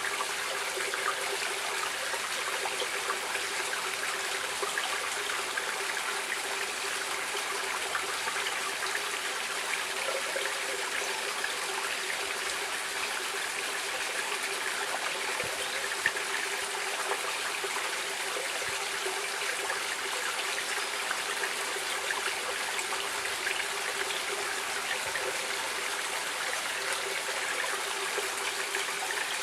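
Steady running water of a stream, a continuous babbling rush with small splashes and trickles, with a faint low steady hum underneath.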